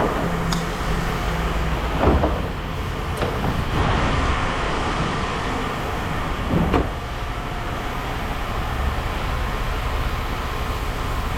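Steady machinery rumble with three short metal clanks, about two, four and seven seconds in, as scrap metal is handled.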